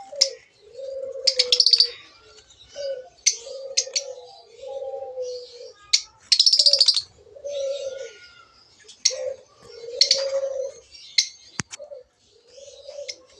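Lovebirds calling: shrill chirps and bursts of rapid, harsh chatter, over a row of low, steady cooing calls. A single sharp click sounds near the end.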